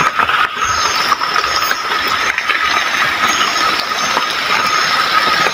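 Heavy rain pouring steadily, with a thin, steady high tone running under it.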